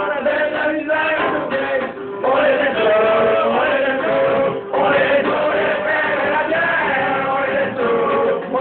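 Music with several male voices singing together in harmony, with brief breaks between phrases about two seconds and nearly five seconds in.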